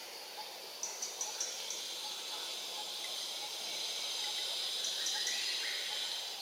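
Steady high-pitched drone of insects, with a few short high chirps about a second in and again near five seconds.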